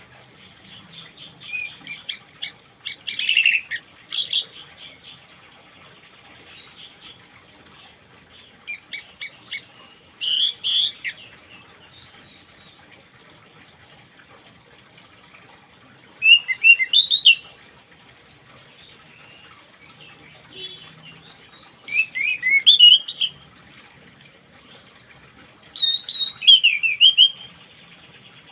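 Orange-headed thrush singing: five bursts of quick, varied whistled and chattering phrases a few seconds apart, over a steady faint hiss.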